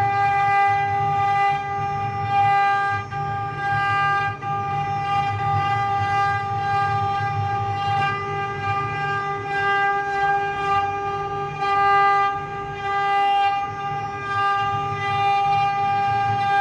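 Mini CNC machine running, its spindle giving a steady high-pitched whine over an uneven low rumble.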